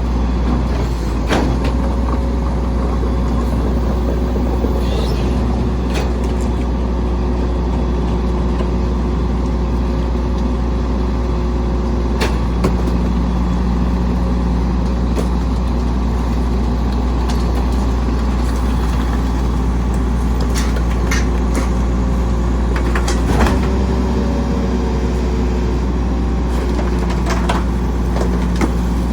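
Volvo Xpeditor rear-loader garbage truck running with a steady low rumble. Thin steady tones come and go over it, and a few sharp clanks sound now and then.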